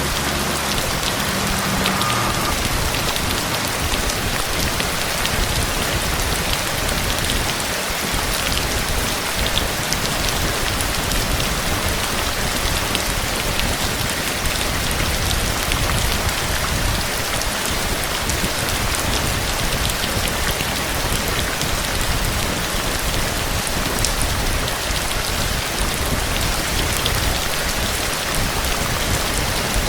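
Steady heavy rain, a constant hiss of falling water with a dense patter of individual drops striking a surface.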